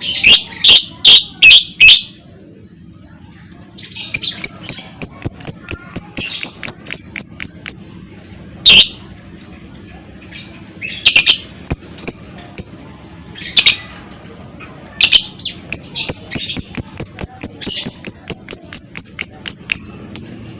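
Lovebird calling: two long runs of fast, evenly spaced high chirps (the 'ngekek' trill), broken by loud harsh shrieks and short clusters of notes.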